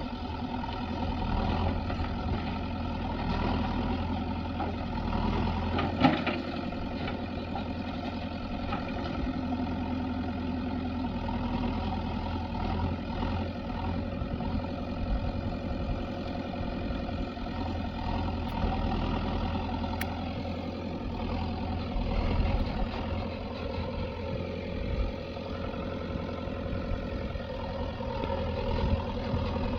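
Diesel engine of heavy machinery running steadily at an even speed, with a single sharp knock about six seconds in.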